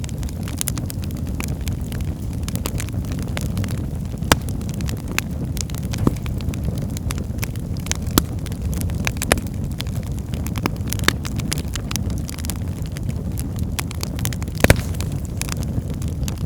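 Wood fire crackling in a fireplace: a steady low rumble of the flames with frequent small crackles and a handful of louder pops, the loudest near the end.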